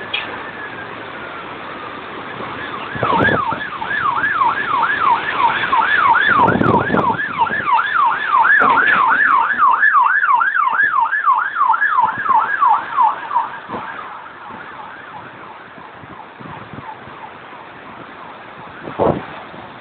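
Emergency vehicle siren in a fast yelp, its pitch rising and falling about three times a second, louder from about three seconds in and fading away near the middle, over a steady rushing noise. A few loud thumps stand out, one near the end.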